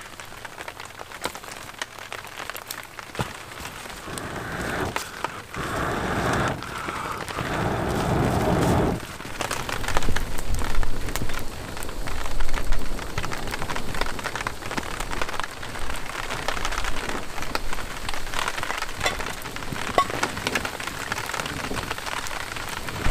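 Rain falling steadily, with many separate drops tapping, over a small wood campfire crackling. A louder rushing noise comes and goes between about four and nine seconds in.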